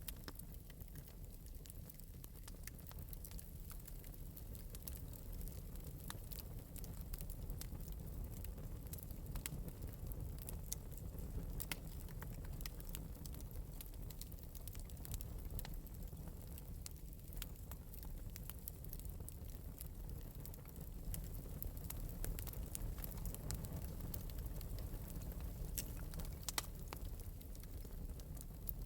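Wood fire burning in an open metal fireplace: a steady low rumble with scattered light crackles and pops all through.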